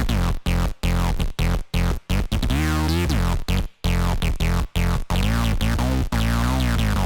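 Arturia MiniFreak synthesizer playing a preset: a rhythmic sequence of short, punchy notes with deep bass and falling filter sweeps, broken by a longer note that bends in pitch.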